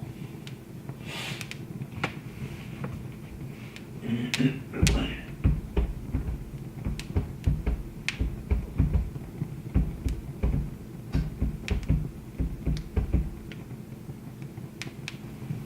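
Wood fire burning in a fireplace, crackling with scattered sharp pops. A low fluttering rumble runs through the middle of the stretch, over a faint steady hum.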